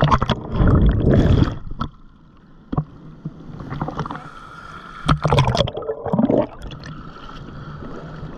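Choppy ocean waves breaking and splashing over a handheld GoPro in the shallow surf, in two loud rushes: one at the start, another about five seconds in.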